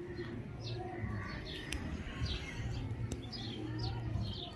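Small birds chirping outdoors: short, high, falling calls several times a second over a low steady drone.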